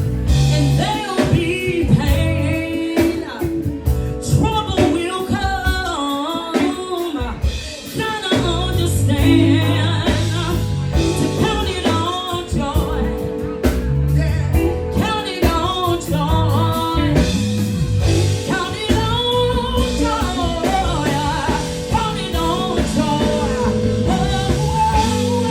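A woman singing a bluesy soul song with wavering, ornamented runs over accompaniment with bass, guitar and drums.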